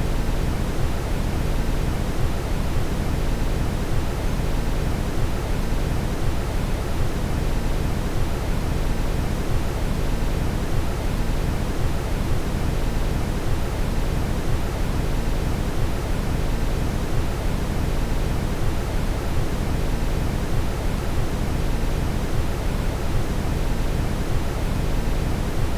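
Steady brown noise: an even, unbroken rush, deepest and strongest in the low end and fading toward the top.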